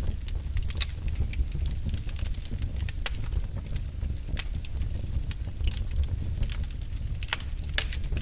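Fire in a fireplace crackling, with irregular sharp pops over a low, steady rumble; the two loudest pops come near the end.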